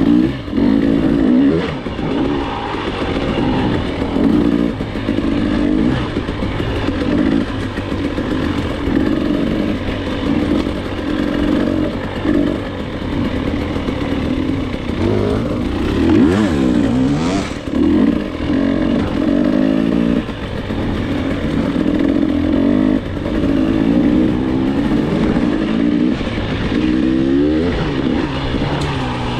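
Dirt bike engine on the move, revving up and dropping back over and over as the rider accelerates, shifts and backs off.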